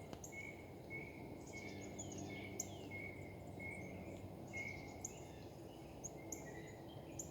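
Several songbirds singing faintly. One bird repeats a short note about twice a second while others give high downward-sweeping notes and sharp chips, over a steady low background rumble.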